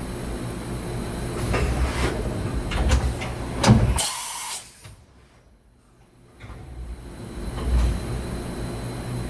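Mazak HCN 4000-III horizontal machining center running an automatic tool change: a steady machine hum with a series of mechanical clunks and clicks, the loudest clunk a little before halfway, followed by a short burst of hiss. The sound then drops almost to quiet for a second or two before the machine noise returns.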